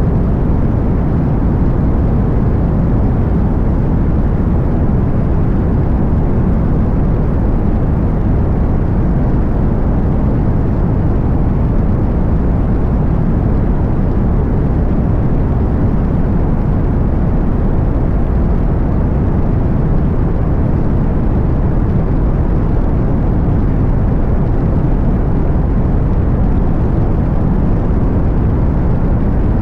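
Cessna 185 Skywagon floatplane's engine and propeller running at a steady, even drone.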